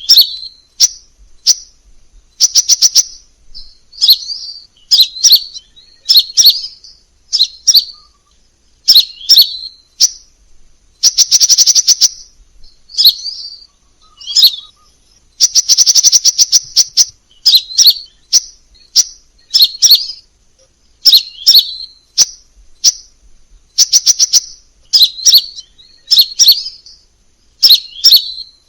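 Crimson sunbird calling: sharp, high-pitched chips and rapid ticking trills in short phrases about once a second, with two longer fast trills partway through.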